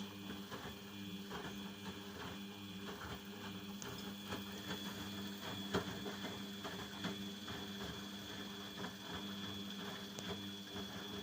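Washing machine running: a steady motor hum with a faint high whine, and irregular light clicks and rattles throughout.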